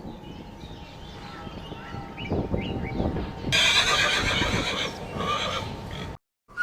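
Horse whinnying: a loud, quavering neigh lasting nearly three seconds that starts about halfway through and cuts off abruptly. Soft thumps and rustling come before it.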